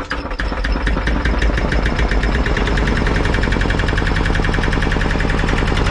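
Antique single-cylinder diesel generator engine firing and running, its rapid knocks quickening over the first couple of seconds and then settling into a steady beat.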